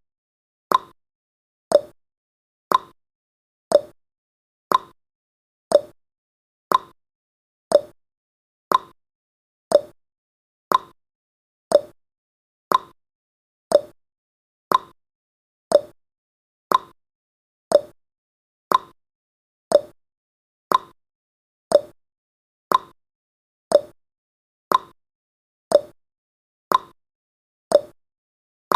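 Clock-ticking sound effect of a countdown timer: a sharp tick about once a second, each dying away quickly, keeping an even beat.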